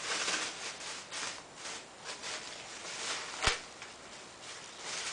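Rustling and handling of packaging while parts are taken out of a box, in short irregular scrapes, with one sharp click about three and a half seconds in.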